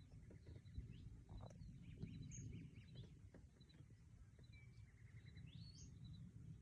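Faint birds chirping and trilling in short repeated notes, over a low steady rumble of background noise.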